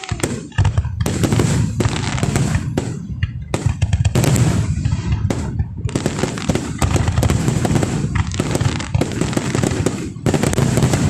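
Aerial fireworks display: a continuous barrage of booming shell bursts mixed with rapid crackling, with brief lulls between volleys.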